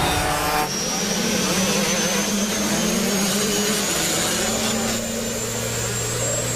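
A steady whooshing, motor-like drone with a thin high whine that starts about a second in and slowly rises in pitch. Low steady hums sit underneath, and a deeper hum joins near the end.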